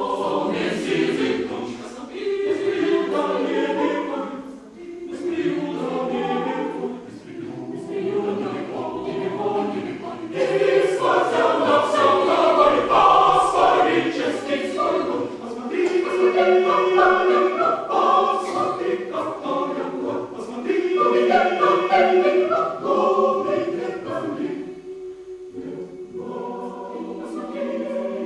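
Choir singing a cappella in phrases with short breaths between them, growing louder about ten seconds in.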